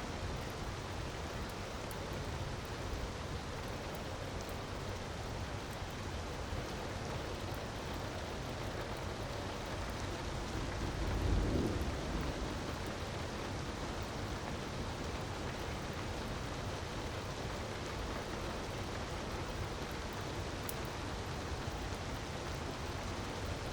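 Steady rush of falling water, with a few faint crackles from a wood fire and a brief low rumble about halfway through.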